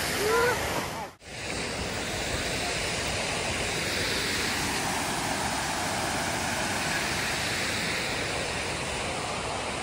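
Water rushing steadily over a waterfall cascade, with a brief break about a second in.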